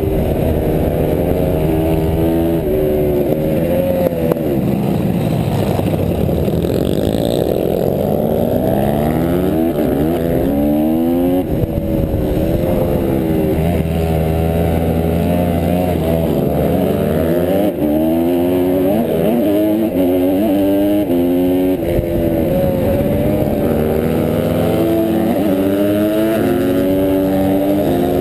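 Honda CRF150R pit bike's single-cylinder four-stroke engine racing hard, revving up and dropping back again and again through the gears. Other bikes' engines are mixed in, their pitches crossing.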